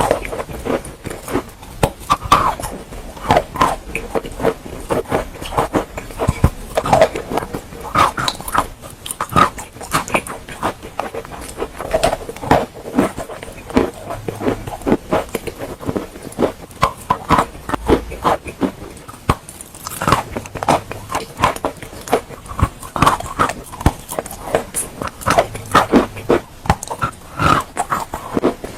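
Close-miked biting and chewing of wet chalk: dense, irregular crunches and wet clicks that go on without a break.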